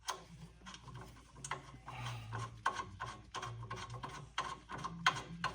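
A steel bolt being wound into its thread by hand with a bare socket, with no ratchet: irregular metallic clicks and scraping as the socket turns and slips on the bolt head.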